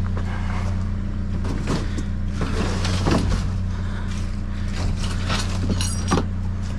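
Vehicle engine idling steadily, with scattered rattles and clanks of scrap wire and junk being handled and a brief metallic clink near the end.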